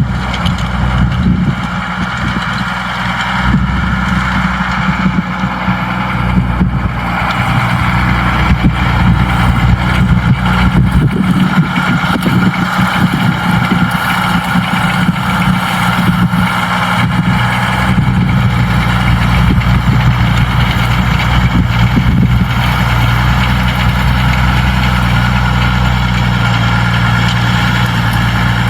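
Tractor diesel engine running steadily with a low drone, getting a little louder about seven seconds in.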